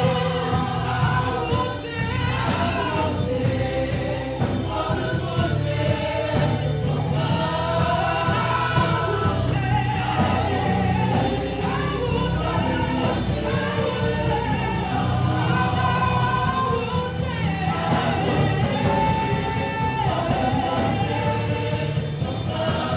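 Gospel worship music: a group of voices singing together over instrumental accompaniment.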